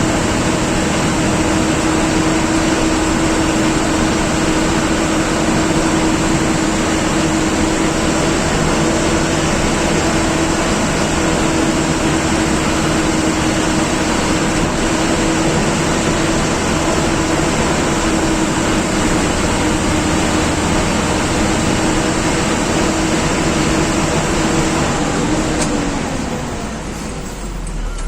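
A TNSTC government bus's diesel engine running steadily with a continuous drone, heard inside the cabin together with road noise. Near the end the drone dips slightly in pitch and the sound eases off.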